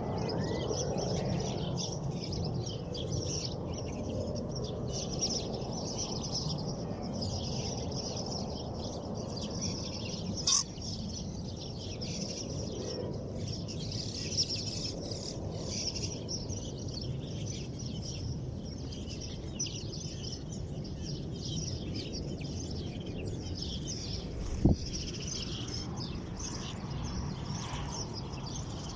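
Many small birds chirping and twittering together without pause, over a steady low background rumble. A short sharp knock comes about ten seconds in and another, louder one a few seconds before the end.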